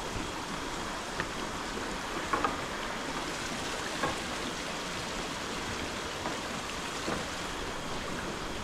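Steady rush of running water, with a few faint taps over it.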